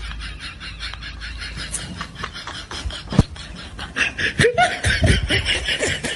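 A person laughing: a rapid, rhythmic snickering laugh.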